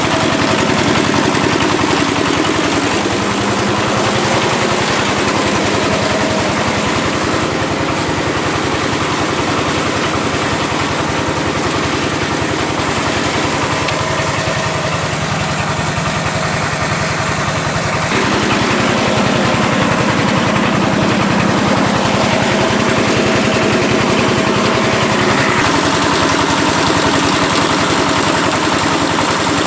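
Power tiller engine running steadily as it drives a restored mini rice mill, with a hiss from the machinery over the engine's fast, even beat. The sound gets a little louder about 18 seconds in and shifts again near the end.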